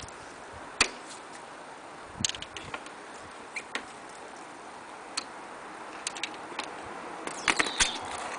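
Hand tools clicking and knocking against metal fittings, irregular single clicks with a quick cluster near the end.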